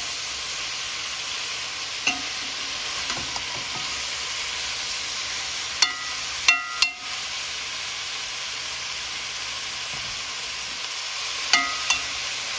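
Salmon and zucchini sizzling as they fry in a metal pot, stirred with a metal spoon that clinks against the pot with a short ring: once about 2 s in, three times around the middle and twice near the end.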